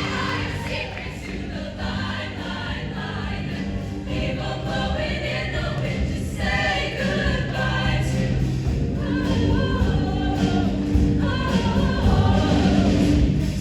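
Show choir singing in parts over instrumental accompaniment, with steady bass notes under the voices.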